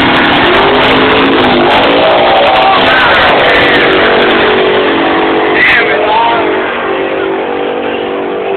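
Drag-racing vehicle engine running loud and steady, with voices over it in the first half. A steady engine drone holds a fixed pitch through the second half.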